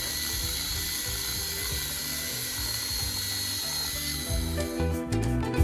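Mechanical chicken plucker running with a steady churning, mechanical whir as a scalded Cornish Cross meat chicken is defeathered. Music comes in about four and a half seconds in.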